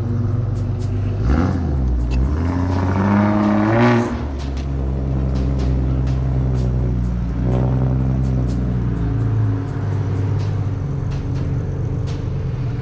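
Ford Mustang engine running loud, revving up twice: a climbing rev in the first few seconds and another in the middle.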